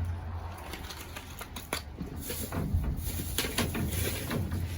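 Rummaging through trash in a dumpster: plastic bags rustling and small items knocking and clicking, over a low steady hum.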